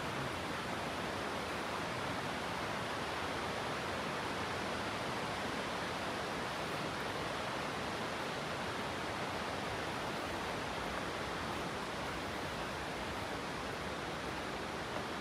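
Steady, even rush of falling or flowing water, with no change in level throughout.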